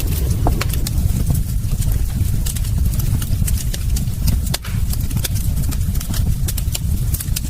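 Wood fire crackling in a fireplace: frequent sharp snaps and pops over a low, steady rumble.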